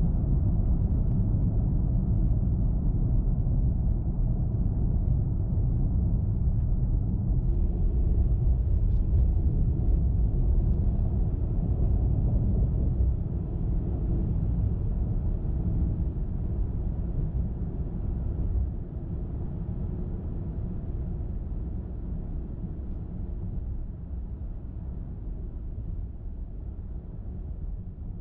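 Car driving on the road: a steady low rumble of tyre and engine noise. It grows gradually quieter through the second half.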